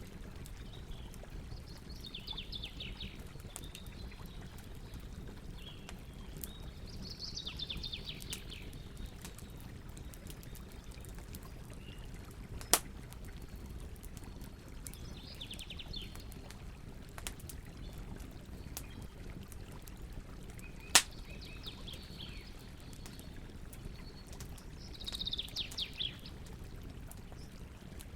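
Campfire crackling steadily, with many small ticks and two sharp, loud pops. Birds sing short trilled phrases every few seconds over it.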